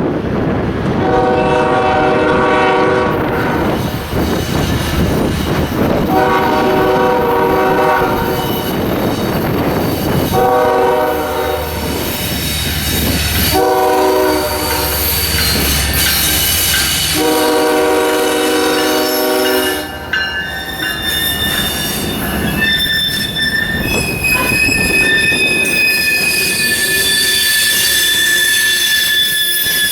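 Train locomotive horn sounding five separate blasts over a low rumble, then steel wheels squealing on the rail in steady high tones as the train rolls past.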